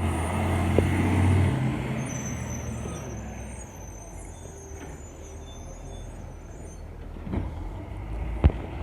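Diesel engine of a Crane Carrier LET1 garbage truck running loudly, then dropping away to a quieter running sound after about a second and a half. A sharp bang comes near the end.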